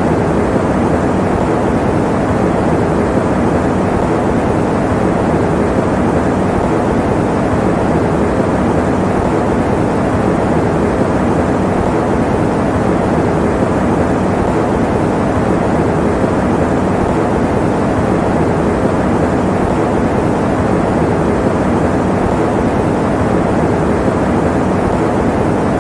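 Electric fan running steadily: an even, unbroken whooshing noise with most of its weight in the low and middle range.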